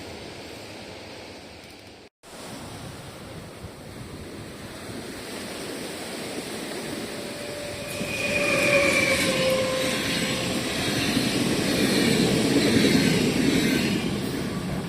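A train passing, its rolling noise building after a brief break in the sound about two seconds in and loudest through the second half. A few brief high tones, falling slightly in pitch, sound about halfway through.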